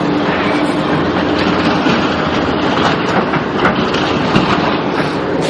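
Steady running noise of a moving vehicle, with scattered clattering clicks over a faint low hum.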